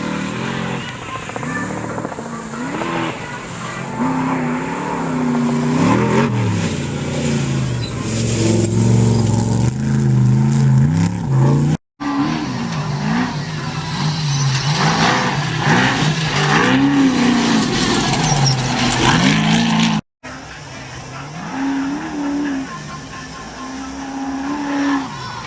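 Off-road race trucks' engines revving hard and easing off again and again as they race by, the pitch rising and falling with each throttle change. The sound breaks off abruptly twice, about 12 and 20 seconds in.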